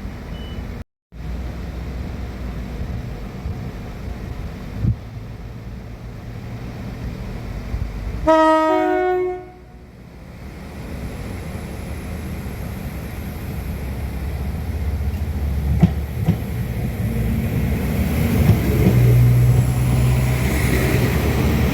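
A train sounds a two-note horn for about a second and a half, then its engine and wheels grow steadily louder as it approaches the level crossing.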